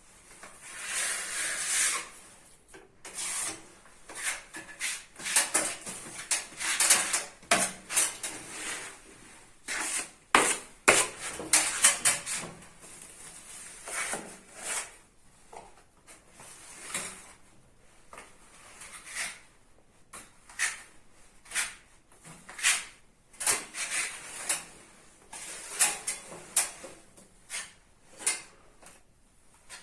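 Steel putty knives scraping and smearing filler onto a wall in short, irregular strokes, with the scrape of metal blade against blade as filler is worked between the narrow and the wide knife.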